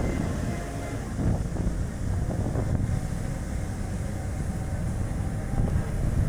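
Strong wind buffeting the microphone over the road and tyre noise of a small car driving, swelling in gusts.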